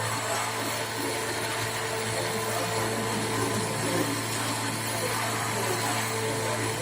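Metalworking machine tool running with a steady, even hum from its motor.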